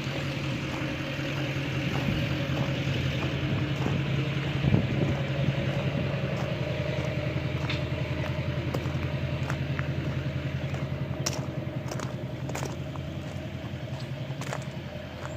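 A car driving, heard from inside the cabin: steady engine and road noise, with a few sharp clicks in the second half.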